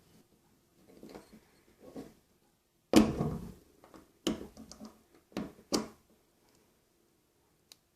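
Small knocks and clicks of hand-handled parts and tools set down on a hard work surface, with faint handling rustles; the loudest knock comes about three seconds in, followed by three sharper clicks and one tiny tick near the end.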